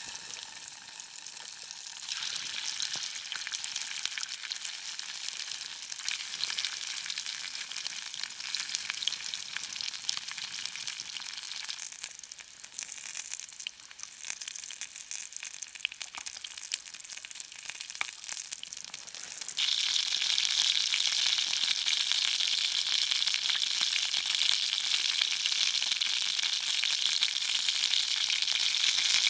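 Chopped pork sausages sizzling in a frying pan over a Trangia alcohol stove, a steady hiss flecked with small crackles and spits. It gets louder about two seconds in and again clearly louder about two-thirds of the way through.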